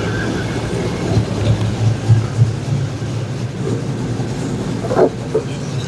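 2002 Chevrolet Silverado's engine idling with an uneven low pulse from an exhaust leak at a V-band clamp, which the owner thinks is not seated all the way around. A brief knock about five seconds in.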